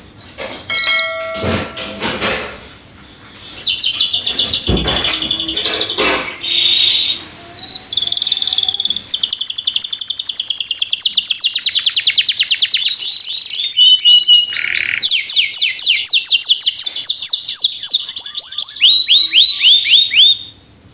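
Domestic canary singing a long song of rapid trills, switching from one fast repeated note to another every second or two. It starts in earnest a few seconds in and stops just before the end.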